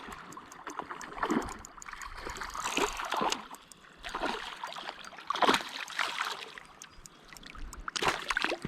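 River water splashing and sloshing in irregular bursts, a little over a second apart, with the light trickle of the current underneath.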